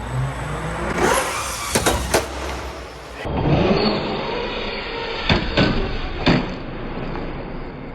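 Traxxas Hoss 4x4 VXL electric RC truck driving, its motor whine rising as it revs, with several sharp knocks and clatters as the truck strikes and lands on a rail or the ground.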